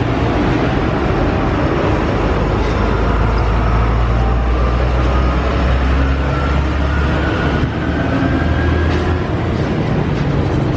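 A machine running steadily: a low hum with a rushing noise over it. The hum shifts about seven to nine seconds in.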